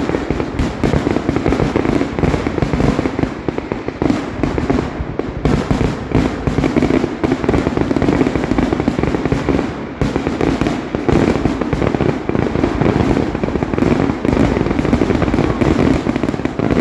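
Fireworks display going off in a rapid, unbroken run of bangs.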